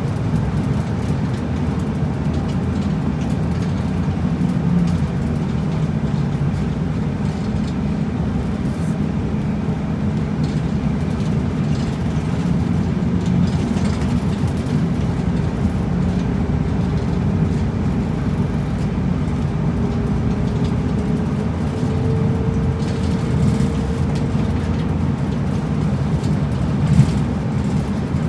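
Route bus driving, heard from inside: steady engine and road rumble. In the second half a faint whine rises slowly in pitch as the bus gathers speed.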